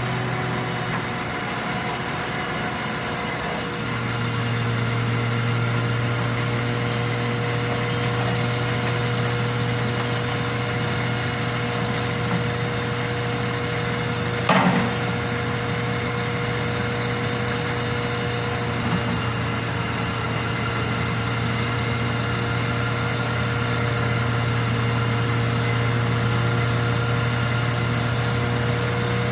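An engine running steadily, its note stepping up slightly about four seconds in, with a single sharp knock about halfway through.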